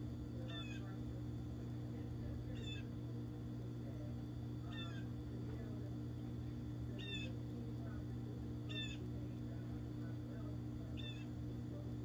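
A bird's short, mewing call repeated six times, about every two seconds, over a steady low hum.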